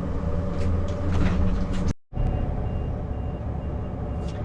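RV engine running with road noise heard from inside the cab while driving. After a sudden cut about two seconds in, a steady series of short high beeps, about two or three a second, sounds over the engine.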